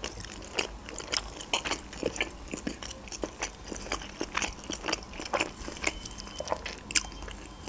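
A person chewing a mouthful of manti dumpling: irregular wet mouth clicks and soft crunches, a few a second.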